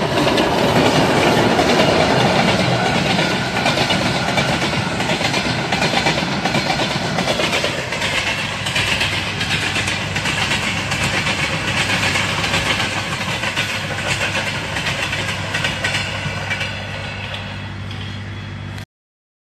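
Diesel-hauled freight train of loaded flatcars rolling past close by: a steady heavy rumble with a continuous run of wheel knocks over the rail joints, loudest in the first few seconds and easing a little after.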